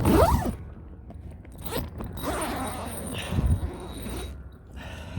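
Tent door zipper being pulled open, with a short pull right at the start and a longer pull of about two seconds from about two seconds in.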